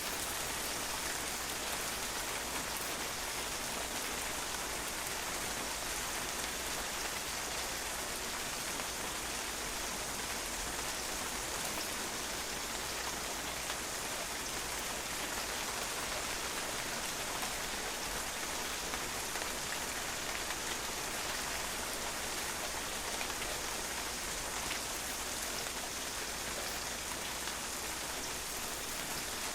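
Steady rain falling on a patio, drops pattering on the hard surface in an even, unbroken hiss.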